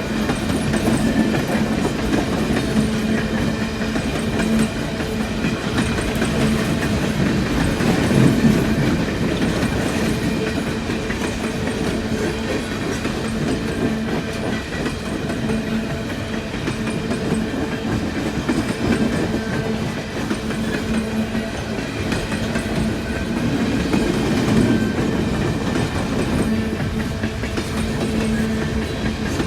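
Empty coal train cars rolling past, wheels clacking over the rail joints, with a continuous rumble and a steady low hum.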